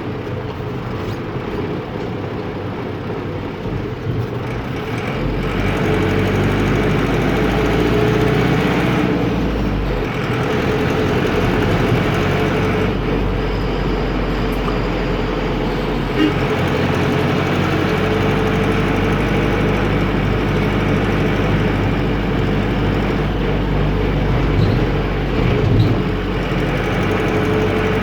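Air-cooled Deutz F4L912 four-cylinder diesel of an Otokar M-2000 minibus running under way, heard from the driver's cab. Its note grows louder about five seconds in and changes pitch a few times as the bus picks up and eases off speed; a brief sharp click sounds about sixteen seconds in.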